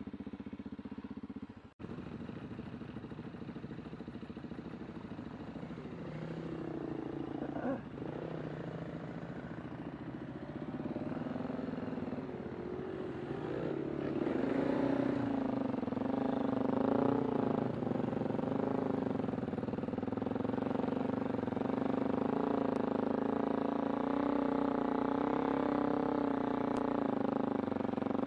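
Kawasaki Super Sherpa's 250 cc single-cylinder engine running as the bike is ridden, its pitch rising and falling with the throttle, then holding steadier and louder through the second half.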